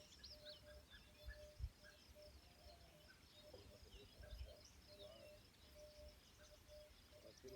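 Faint outdoor birdsong: scattered high chirps and twitters over a short lower note repeated about twice a second, with a low rumble and a single brief low thump about one and a half seconds in.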